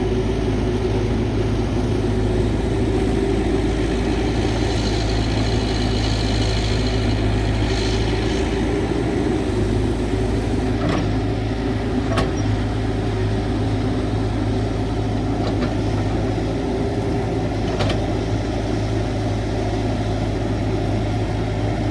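CAT 312 hydraulic excavator's diesel engine running steadily under work, with a stretch of hiss a few seconds in and a few short sharp clanks in the second half.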